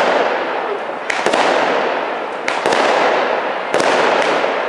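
Firecrackers going off in a steady series: four sharp bangs, roughly one every second or so, each followed by a long rushing tail that slowly fades.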